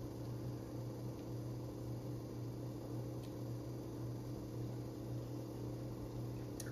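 Quiet room tone: a steady low hum under a faint even hiss, with a faint tick about three seconds in and another near the end.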